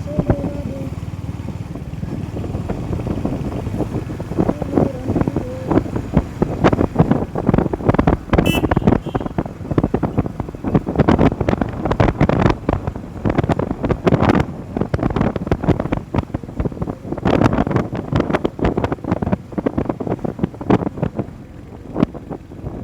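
Wind buffeting the microphone on a moving motorcycle, in irregular gusts over the low rumble of the ride, choppier from about six seconds in.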